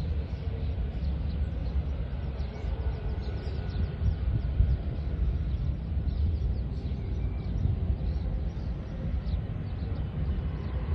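Steady low rumble of a distant jet aircraft's engines.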